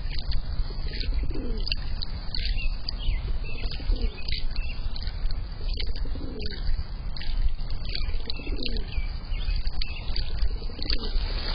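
A dove cooing, a low hooting note repeated about every two seconds, with many short high chirps from other small birds over a steady low rumble.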